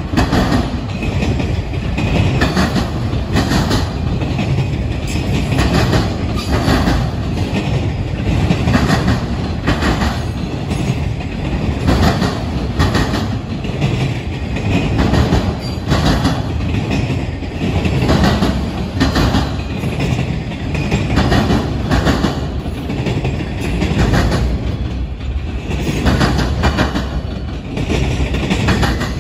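Freight train's autorack cars rolling past close by: a steady rumble of steel wheels on rail, with repeated clacks as the wheels pass over rail joints.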